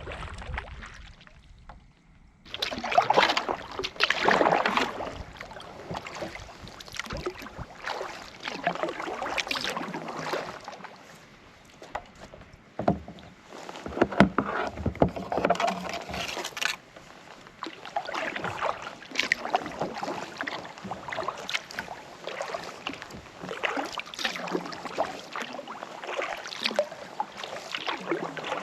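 Kayak paddle strokes dipping into and pulling through lake water, with splashes and drips, coming every second or two after a short lull near the start.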